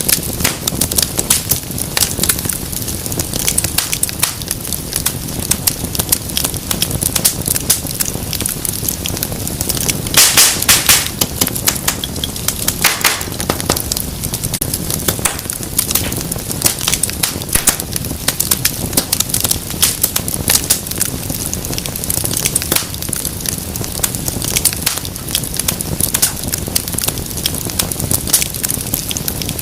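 Wood fire crackling with dense, irregular sharp pops over a steady low rush of flame. A run of louder pops comes about ten seconds in.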